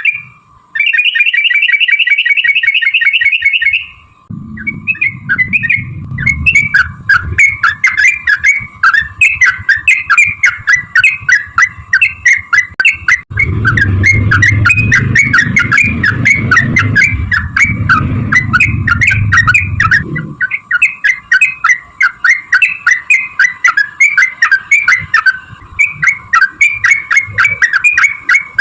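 Yellow-vented bulbul (trucukan) singing: a fast rolling trill of repeated notes in the first few seconds, then a long run of quick bubbly chattering phrases. A low rumble sits under the song through much of the middle.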